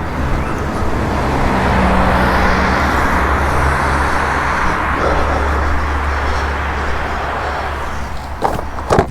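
A road vehicle going by on the street, its engine hum and tyre noise swelling over the first two seconds and slowly dying away.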